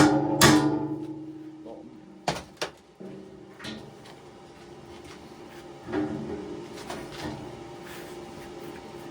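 Hammer striking metal fittings: a few sharp blows, the loudest right at the start. Each is followed by a short metallic ring, then a pair of lighter taps a couple of seconds later and one more near six seconds.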